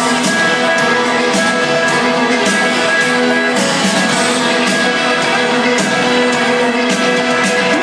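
Live country band playing loudly, guitars strumming over a steady drum beat.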